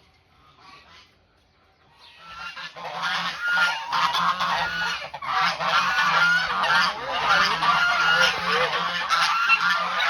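A flock of farm fowl calling over one another, many short pitched calls at once, starting about two seconds in after a near-quiet moment, with a steady low hum underneath.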